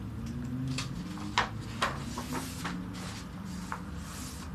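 Paper pages of a colouring book being handled and turned: a few short crisp ticks and two brief swishes of paper.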